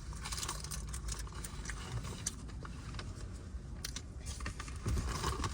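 Crinkling of paper food wrappers and packets with many small sharp clicks from handling food, over a low steady rumble.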